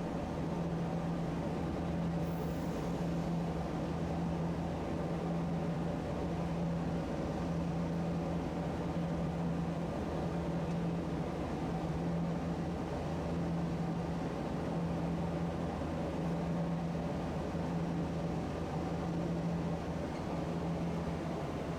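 Tosaden streetcar running, a steady low hum over an even rumble.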